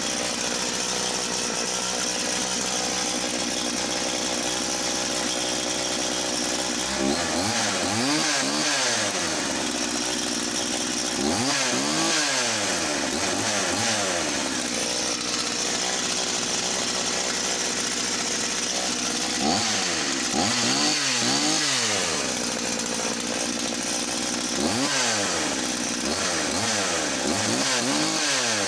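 Husqvarna Rancher 50 two-stroke chainsaw running just after a cold start with the choke off. It idles steadily at first, then is revved in short blips, two or three at a time, four times over, dropping back to idle between.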